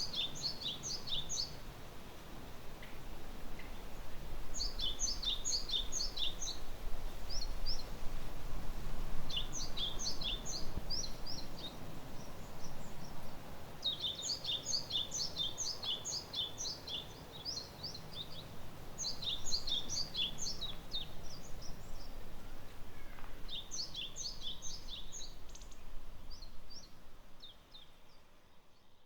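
Small songbirds giving short bursts of quick, high chirps, a cluster about every five seconds, over a faint steady outdoor hush. The sound fades out near the end.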